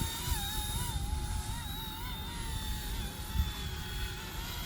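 Small electric RC helicopter (RC ERA 186C Pro) in flight: a steady motor-and-rotor whine whose pitch wobbles up and down as the throttle shifts, over a low rumble of wind on the microphone.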